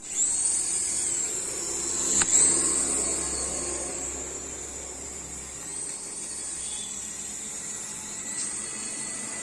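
High-pitched whine of a toy RC mini helicopter's small electric rotor motors, its pitch stepping up and down several times with the throttle. A sharp click about two seconds in.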